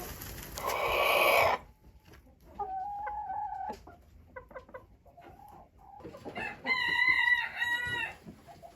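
Chickens calling: a loud harsh squawk about a second in, a steady-pitched call a couple of seconds later, and a longer, loud steady-pitched call near the end.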